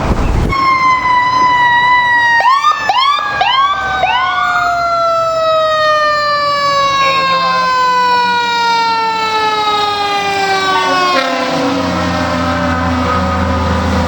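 Fire truck's mechanical siren winding down in one long, slowly falling wail. Four quick rising-and-falling siren chirps cut across it about two to four seconds in, and a heavy engine rumble swells near the end.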